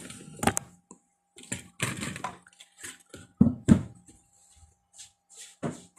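Scattered knocks, clicks and rustles of things being handled and set down, with short silences between; the two loudest, about half a second apart, fall a little past the middle.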